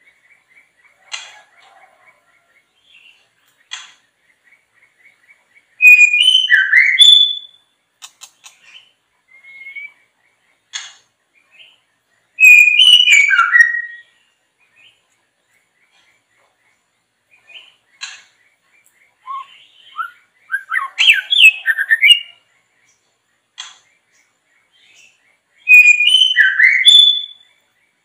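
Songbird singing loud whistled phrases, four of them, each about one and a half to two seconds long and much alike. Between the phrases come faint scattered chirps and a soft, rapid ticking trill.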